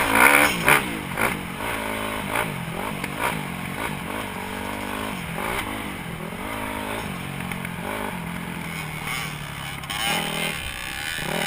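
Dirt bike engine being ridden, revving up and dropping back again and again as the throttle is worked and gears change. It is loudest in the first second, then settles into repeated rises and falls about once a second.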